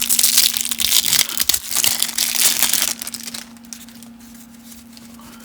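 Cellophane wrapper of a baseball card cello pack crinkling as it is torn open and crumpled for about three seconds, then quieter handling with a few faint ticks. A steady low hum runs underneath.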